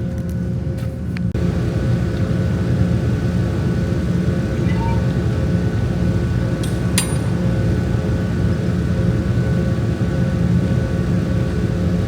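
Semi truck's diesel engine idling steadily, with a sharp click about seven seconds in.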